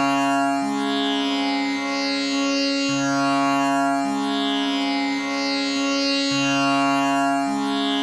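Tanpura drone tuned to C sharp, its strings plucked in a steady cycle that repeats about every three and a half seconds. The tonic and its fifth ring on together with a dense shimmer of overtones.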